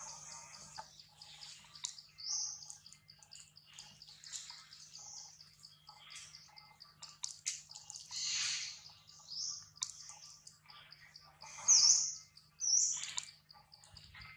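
Wild birds chirping and calling: a string of short high calls, with two louder sweeping calls near the end.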